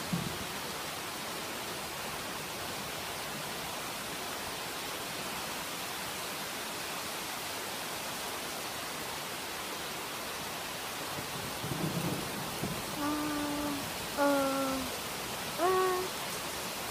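Steady heavy rain hissing down over a garden. Near the end a voice draws out a few long sung notes, the last one rising.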